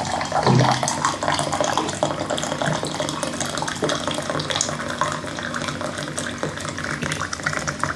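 Hot water running steadily into a cup, filling it.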